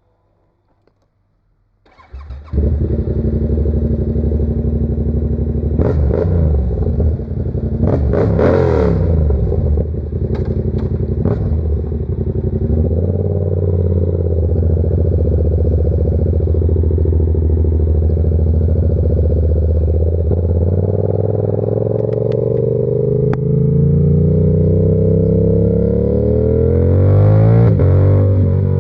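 Yamaha R7 parallel-twin engine with an aftermarket SC-Project exhaust starting up about two seconds in, then idling with a few throttle blips. Near the end the revs rise as the bike pulls away.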